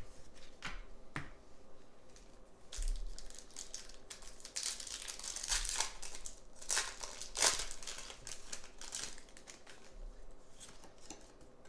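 Foil booster-pack wrapper of Pokémon trading cards being handled and torn open: two light clicks, then several seconds of crinkling and tearing that grow loudest in the middle.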